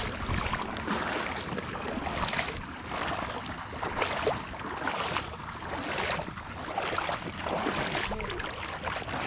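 Footsteps wading through shallow swamp water and mud, each step a sloshing splash, about one a second.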